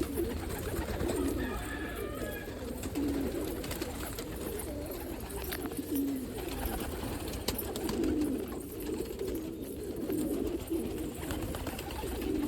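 Several domestic homing pigeons cooing over and over, their low wavering coos overlapping, with a few faint clicks.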